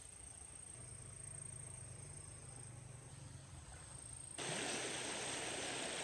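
Steady high-pitched insect trilling over faint background ambience; about four seconds in, a louder even hiss comes in suddenly.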